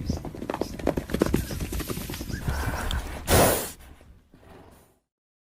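Horse hooves galloping in a fast, irregular drumming, with one short loud breathy horse call a little over three seconds in; the sound then fades and cuts to silence near the end.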